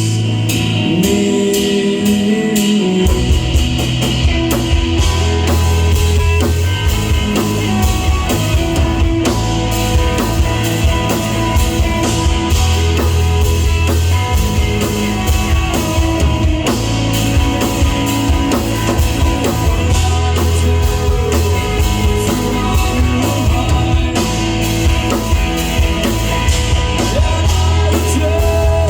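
Live rock band playing: a last sung word near the start, then drums and bass come in strongly about three seconds in and the full band plays on.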